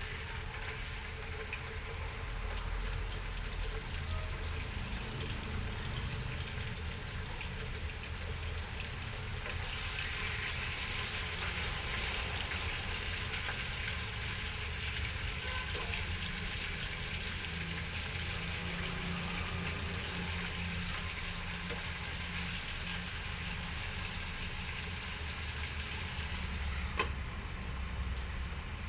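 Marinated pork pieces frying in hot oil in a pan, a steady sizzle that grows louder and denser about ten seconds in.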